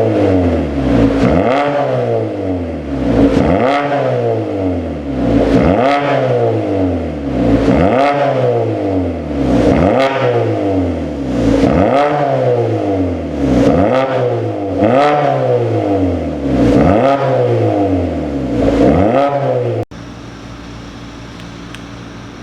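Kia Sportage QL 2.0 CVVL gasoline inline-four revved repeatedly through an aftermarket dual variable exhaust: about ten quick throttle blips, each rising and falling in pitch, roughly one every two seconds. About 20 seconds in it cuts to a quieter, steady running note.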